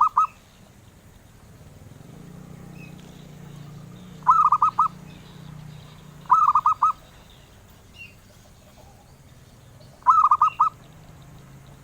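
Zebra dove (perkutut) cooing: repeated short phrases of quick, rolling coo notes, each phrase lasting under a second, coming about every two to four seconds.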